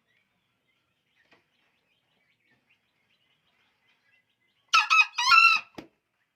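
Green junglefowl crowing once, a short, high two-part call about five seconds in, over faint scattered chirps.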